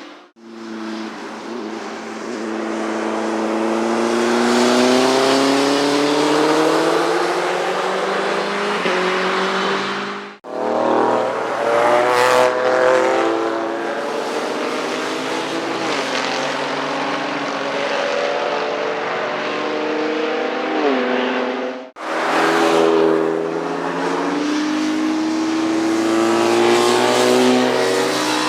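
Motorcycle engines at high revs passing on a race track, their pitch climbing and falling as they go by. The sound cuts off abruptly twice and resumes with another pass.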